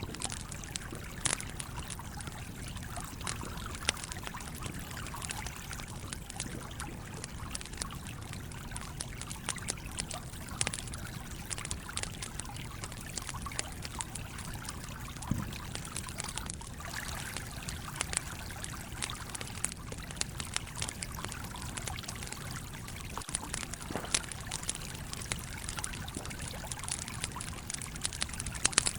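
Steady flow of a trickling stream, with a campfire crackling and giving off frequent sharp pops.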